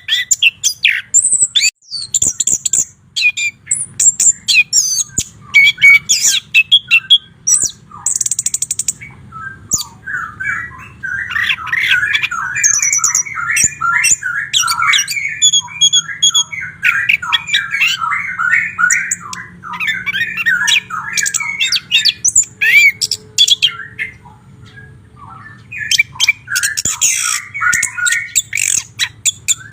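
White-rumped shama singing a varied song of high whistled and sharp notes. From about a third of the way in, it breaks into a long fast run of repeated lower notes, pauses briefly, then resumes singing near the end.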